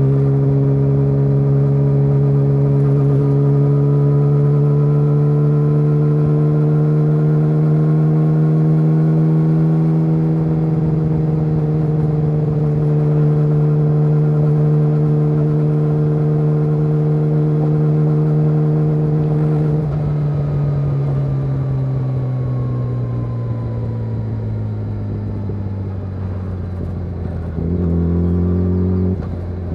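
Yamaha YZF-R6's inline-four through an SC-Project SC1-R exhaust, ridden at steady mid revs with the pitch creeping slowly up for about twenty seconds. The revs then fall away as it slows, with a short step up in revs near the end before dropping again.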